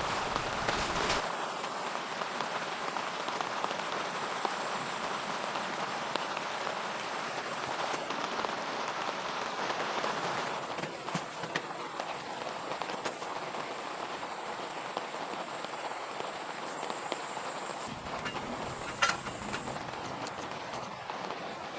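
Steady rain falling, with scattered sharp taps of drops. It gets a little softer about ten seconds in.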